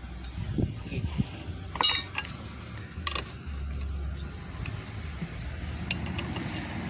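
Two sharp, ringing metal-on-metal clinks about a second apart, then a few faint ticks, over a steady low engine rumble.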